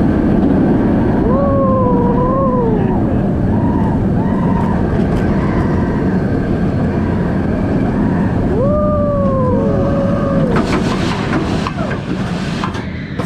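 Wind roar and track rumble of a B&M inverted roller coaster (Alpengeist) running at speed, heard from the front row. Riders' voices rise and fall in whoops over it several times, with a few sharp knocks near the end.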